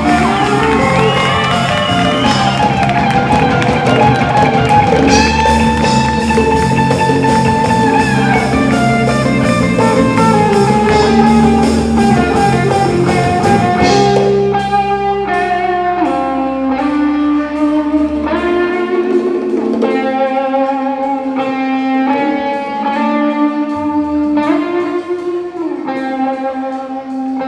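Instrumental break of a live band: a guitar plays a lead melody over bass and drums. About halfway through, the drums and bass drop out, leaving the guitar picking notes on its own.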